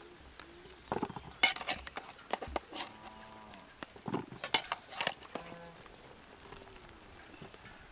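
Metal pot and utensils clinking and knocking as boiled potatoes are taken out of the pot. Short animal calls come in about three and five seconds in.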